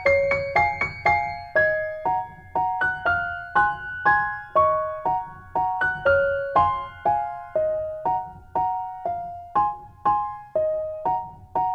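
Background music: a gentle piano melody, single notes struck at a steady pace of about two a second, each ringing out and fading, over a soft low accompaniment.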